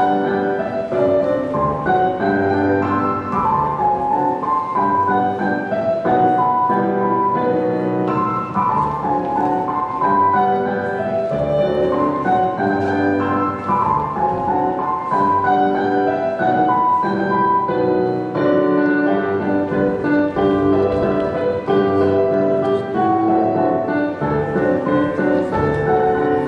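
Classical piano music, a steady stream of notes.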